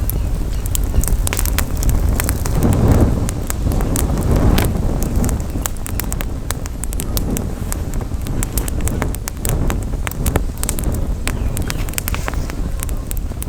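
Campfire crackling with many sharp pops, over a steady low rumble of wind on the microphone; the noise swells twice, about three and four and a half seconds in.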